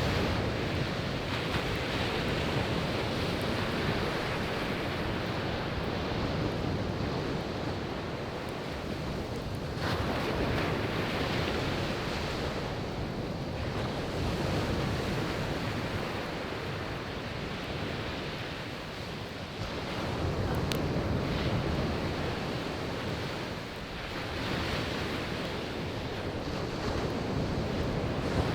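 Surf breaking and washing onto a beach, swelling and easing every few seconds, with wind on the microphone. A single sharp pop from the burning firewood comes about two-thirds of the way through.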